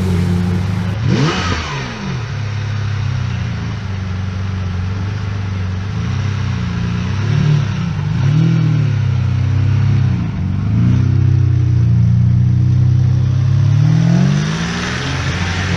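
A sports car's engine idling and being revved in a series of quick blips, the pitch swooping up and falling back several times, with a longer rise near the end.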